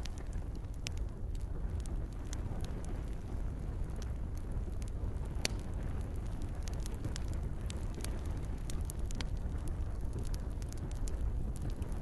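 Campfire crackling and popping, with scattered sharp snaps over a steady low rumble of the burning fire, and light rain in the background.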